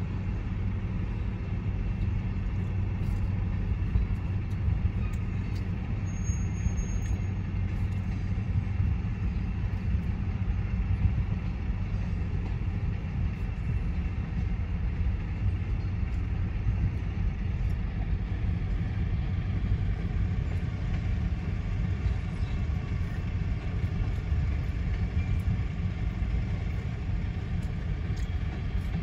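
Steady low rumble, heard from inside a stopped car's cabin, as a slow-moving grain train of covered hopper cars rolls across a road crossing.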